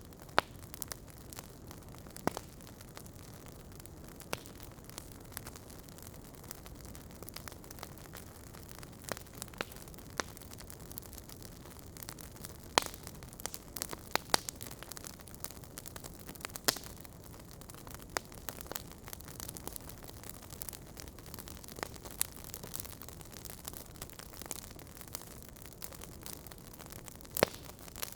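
Wood logs burning in a fireplace, a steady low hiss of flame with irregular sharp pops and crackles of the burning wood scattered throughout.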